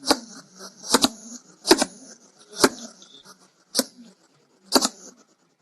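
Hedgehog making a series of six short, sharp snuffles, about one a second.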